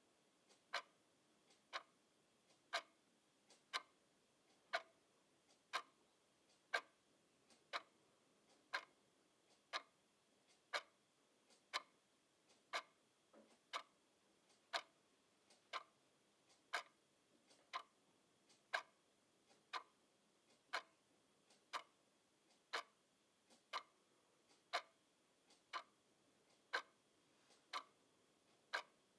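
Clock ticking steadily, about one tick a second, the ticks alternating slightly louder and softer in a tick-tock pattern.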